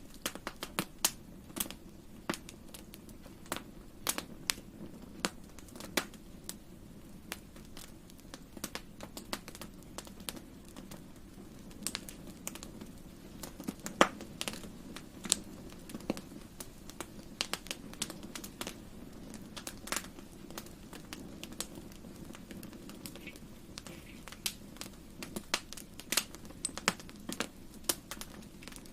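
Wood fire crackling in a fireplace: irregular sharp pops and snaps over a steady low rumble of the flames, with the loudest pop about halfway through.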